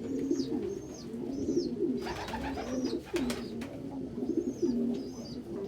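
Several domestic pigeons cooing over one another, with low coos repeating all through. Short high falling peeps come over the top several times, and there are a couple of sharp clicks or rustles around the middle.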